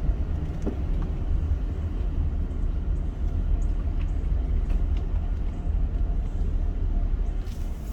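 Steady low rumble of a car driving along a road: engine and tyre noise, with a few faint clicks.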